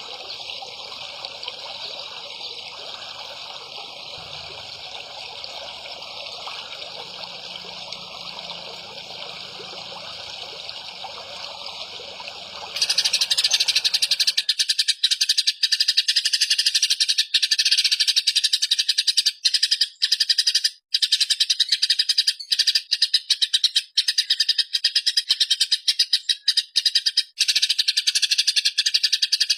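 A songbird's 'tembakan' song bursts, a rapid, dense rattling buzz. It starts suddenly about halfway through and goes on loudly with brief breaks. Before it there is a steady hiss with a trickling, water-like sound.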